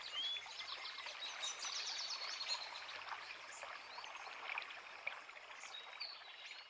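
A creek running with a steady rush of water, while several small birds sing over it in quick chirps and short whistles, with a rapid trill about two seconds in.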